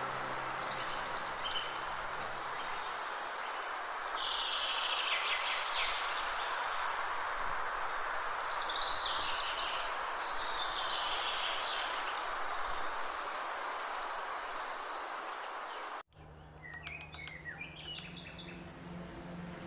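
Songbirds chirping and trilling over a steady hiss of outdoor background noise. About sixteen seconds in, it cuts off abruptly to fainter bird calls with music underneath.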